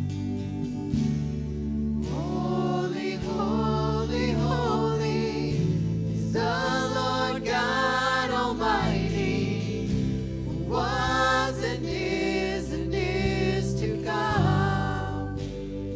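Worship song: voices singing long phrases over sustained instrumental chords, with a short instrumental stretch between phrases.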